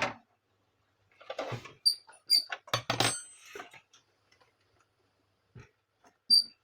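Irregular clicks and knocks of printer housing parts being handled during disassembly. A few carry a short high metallic tink, and the loudest knock comes about three seconds in.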